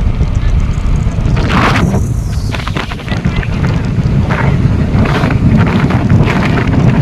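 Loud, steady low rumble of wind buffeting the microphone, with a few brief higher-pitched sounds over it.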